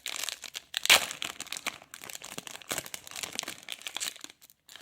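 A trading card pack wrapper being torn open and crinkled by hand: a rapid run of crackles and rustles, loudest about a second in, trailing off near the end.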